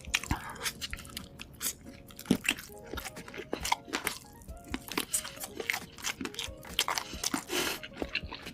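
Close-up eating sounds: crisp bites and crunchy chewing of fried chicken, in quick irregular crackles.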